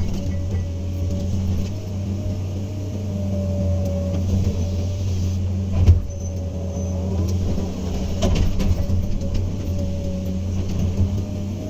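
Hydraulic excavator's diesel engine running steadily, with a faint whine that comes and goes. A couple of sharp knocks sound, the loudest about six seconds in.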